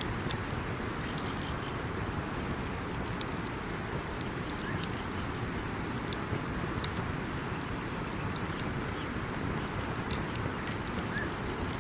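Wood campfire burning: a steady low rush of flame under many sharp, irregular crackles and pops from the burning wood.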